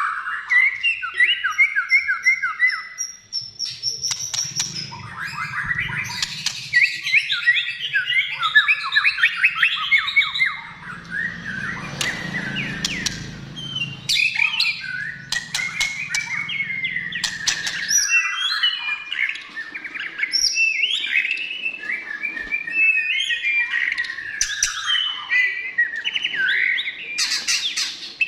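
White-rumped shama (murai batu) singing without pause, in full voice. The song is a fast, varied run of whistled phrases broken by sharp clicks.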